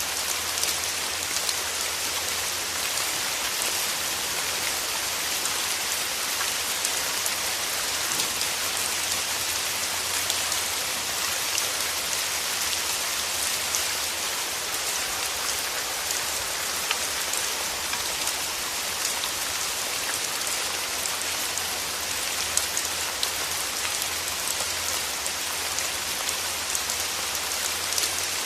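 Steady rain falling through forest trees, an even hiss with many small droplet patters throughout.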